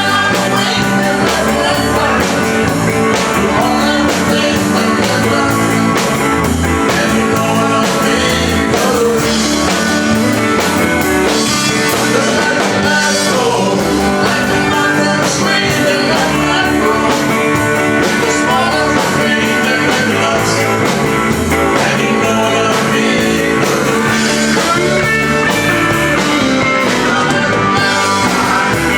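Live country band playing a steady up-tempo song, with guitar prominent over bass and drums.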